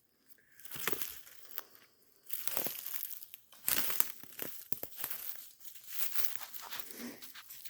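Dry leaves and brush rustling and crunching underfoot and against the body as someone pushes on foot through dense undergrowth, in irregular bursts.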